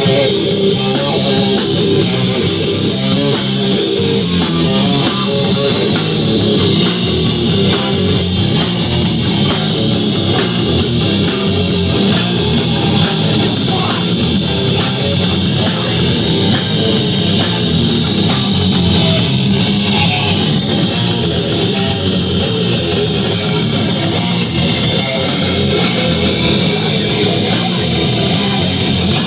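Live heavy rock band playing: distorted electric guitar with bass and drum kit, loud and continuous.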